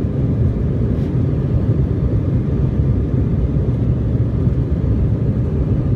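Steady low rumble inside an airliner cabin, the jet engines and airflow heard during takeoff.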